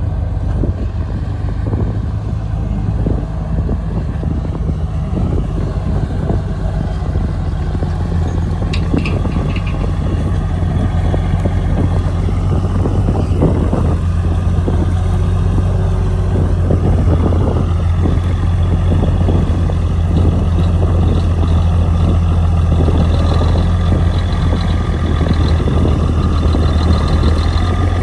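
Heavy diesel engine of earthmoving machinery running steadily, a deep low hum with rough clatter over it.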